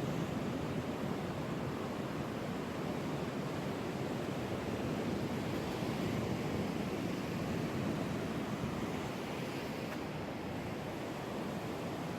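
Ocean surf breaking and washing on the beach, a steady rushing noise.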